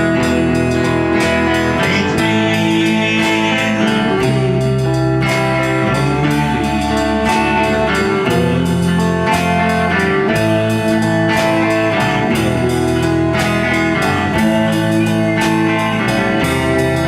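Live band playing an instrumental passage led by guitar, with a bass line and steady drum hits under it, in a bluesy style.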